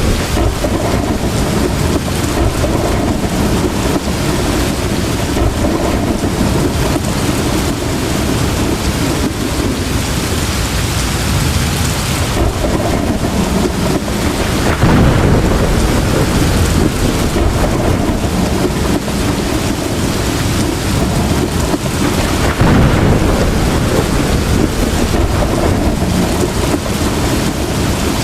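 Heavy rain pouring steadily under a continuous low rumble of thunder, the thunder swelling twice, about halfway through and again later on.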